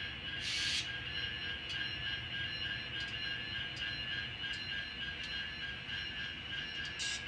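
N scale model train running on the layout: a steady high whine with light regular clicks, roughly three every two seconds, and two short hisses, one near the start and one near the end.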